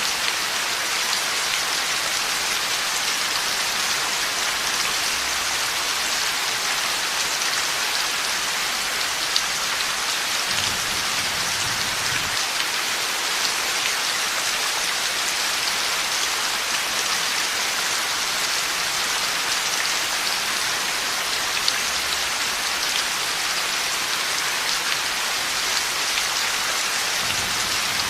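Steady heavy rain falling, with faint low rumbles of thunder about ten seconds in and again near the end.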